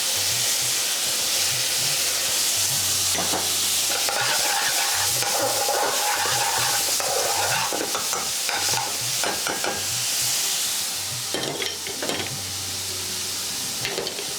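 Oil sizzling in a hot pan as sliced onion, garlic, bay leaves and cinnamon fry, with a utensil repeatedly scraping and stirring against the pan.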